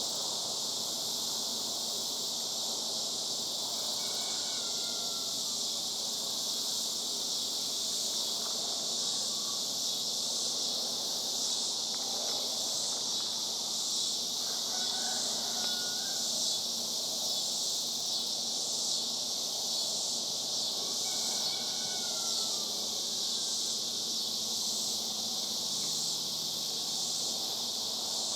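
Chorus of cicadas buzzing steadily in a high band, with a faint pulsing in the drone. Faint short downslurred bird whistles come three times: about four seconds in, around the middle, and later on.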